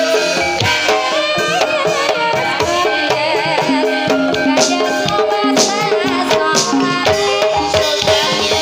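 Javanese gamelan music accompanying a kuda kepang (ebeg) dance: hand drums keep a steady, busy beat under many ringing tuned metal percussion notes.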